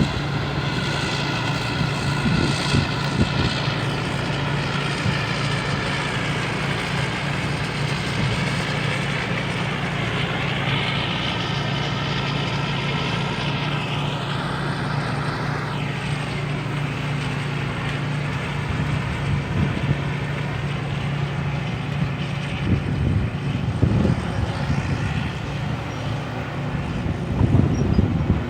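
Rice combine harvester's Hino diesel engine running steadily while harvesting, with a higher whine from the machinery that dips and recovers about halfway through, and some rougher knocks near the end.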